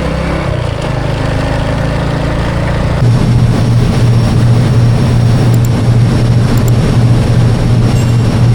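Engine running steadily. About three seconds in it gives way to a louder, steady low drone.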